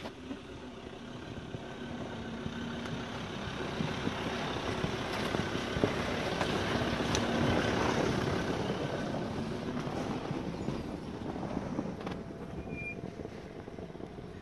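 A 4x4 vehicle's engine working over rough ground, growing louder to a peak about halfway through and then fading again.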